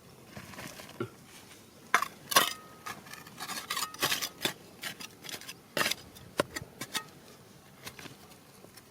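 Hard objects clicking and clinking against each other in a rapid, irregular cluster of sharp knocks, one ringing briefly, most of them between about two and seven seconds in.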